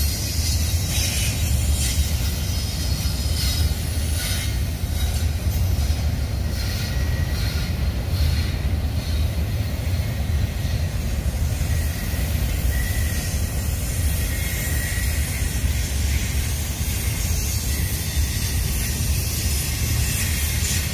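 Double-stack intermodal freight train rolling past steadily: the low rumble of its container well cars on the rails, with a faint wheel squeal around the middle.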